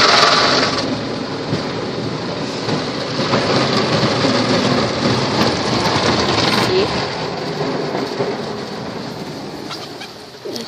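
PDQ ProTouch soft-touch car wash running over the car, heard from inside: water spray drumming on the body with a steady rushing noise. A loud hiss drops off about a second in, and the wash noise then fades slowly.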